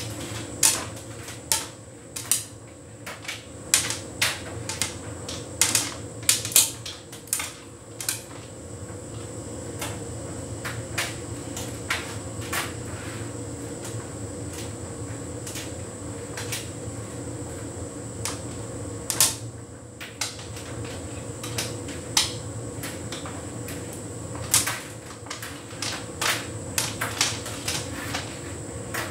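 Hotpoint heat pump tumble dryer running a synthetics cycle: a steady hum with a faint high whine, under irregular clicks and knocks from the load tumbling against the drum. The knocks come thick and fast for the first several seconds and again near the end, and only now and then in between.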